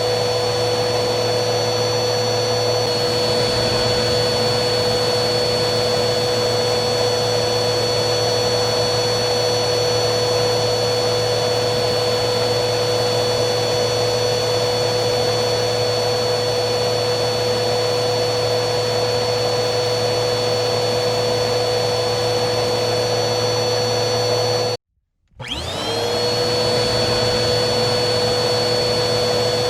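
Vacuum cleaner running steadily, a motor hum with a high whine over a rush of air. About 25 seconds in the sound cuts out for half a second, then comes back with the whine rising quickly back to pitch.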